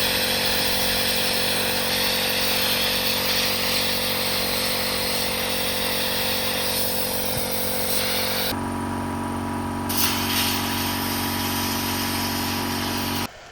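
Sandblasting with 0.5 mm quartz sand: a steady loud hiss of the blast gun over the hum of an air compressor. About two-thirds of the way through the hiss stops and the machine hum goes on alone, then everything cuts off abruptly near the end.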